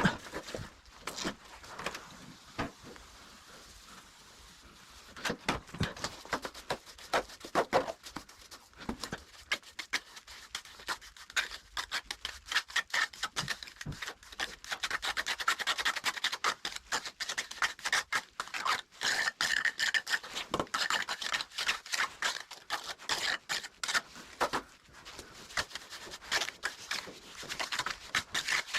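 Steel trowel scraping and rubbing wet cement mortar in many quick strokes, sparse at first and then nearly continuous from about ten seconds in.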